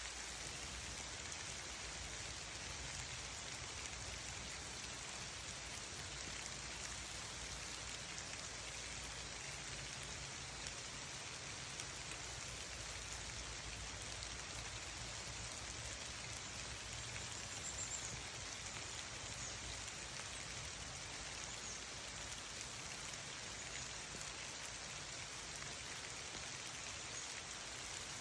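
Steady rain pattering, an even hiss with no break or change in level.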